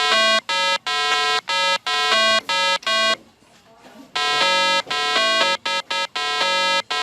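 An electronic melody of short beeping notes at changing pitches, like a ringtone. It plays in two phrases with a pause of about a second in the middle.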